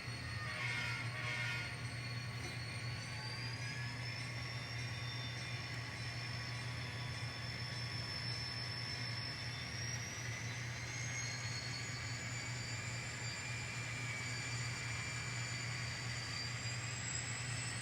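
N scale model train locomotive running on the layout: a steady low hum under a high thin whine that climbs in pitch in slow steps, about three seconds in, again around ten seconds and near the end.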